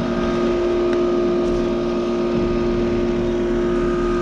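Snyder General outdoor heat pump unit running: a steady compressor hum made of several held tones, under the rushing noise of its condenser fan.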